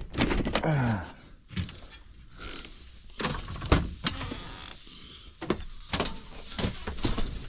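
Truck camper door being opened and handled: a string of latch clicks, knocks and thumps, with a short falling creak in the first second.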